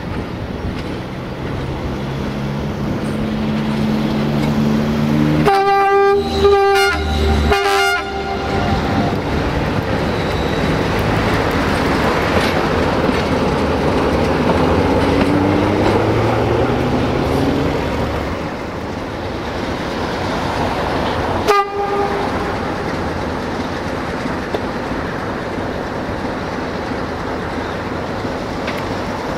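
Diesel train running, with a steady engine rumble. Its horn sounds three short blasts about six seconds in and one brief toot about twenty-one seconds in. Midway, an engine tone rises in pitch.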